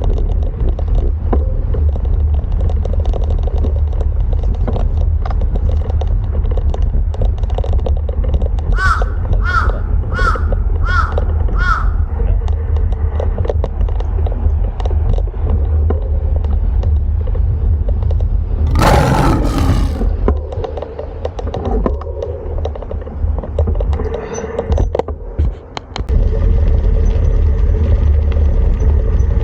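Wind buffeting the microphone while cycling, a steady low rumble that eases for a few seconds in the second half. A bird calls five times in quick succession about nine seconds in, and a loud noisy rush lasting about a second comes near the middle.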